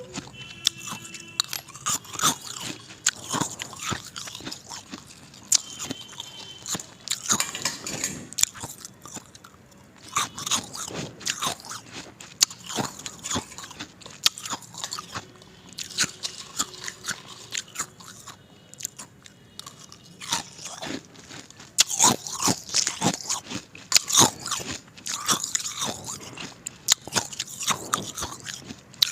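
Ice being bitten and chewed close to the microphone: a dense run of sharp, crisp crunches and cracks, busiest near the end.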